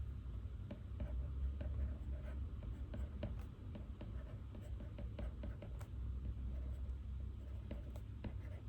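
Pen writing on paper: irregular light scratching strokes and small taps, over a steady low room hum.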